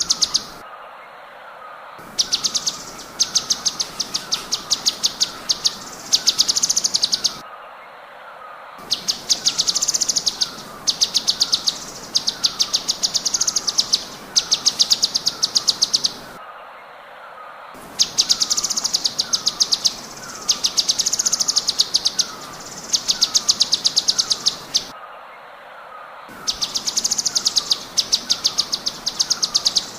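Cucak cungkok bird song: rapid-fire high trills in bursts of about a second, repeated with short pauses. Underneath runs a steady series of short falling notes about twice a second.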